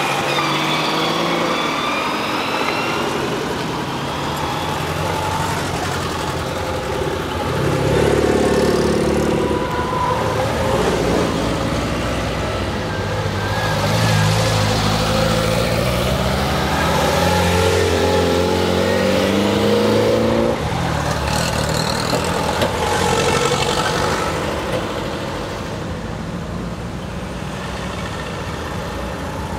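A column of small classic NSU cars, such as the Prinz and the 1000/TT, driving past one after another, each engine swelling as the car comes close and fading as it goes by. The closest and loudest passes come about a quarter of the way in and again from about halfway to two-thirds through, and it is quieter near the end.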